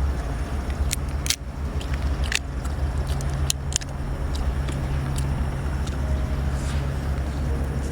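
Crunchy bites and chewing of seafood, with a few sharp crackles in the first half, over a steady low rumble.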